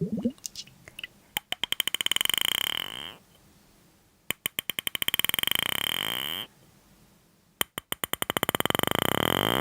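Reed whistle blown three times. Each note starts as a rattle of separate clicks that quickly run together into a steady, buzzy tone.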